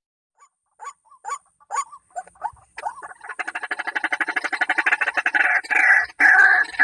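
White-breasted waterhen calling: a few separate notes, then a fast run of repeated pulses from about three seconds in that builds into louder, longer calls near the end. A thin steady high tone runs underneath.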